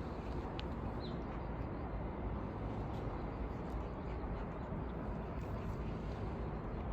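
Steady low outdoor background rumble, with a short high chirp about a second in.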